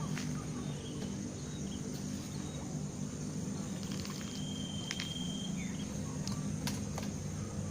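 Rural outdoor ambience: a steady high buzz of insects, with a short whistled bird call about four seconds in and a few faint chirps and clicks, over a steady low hum.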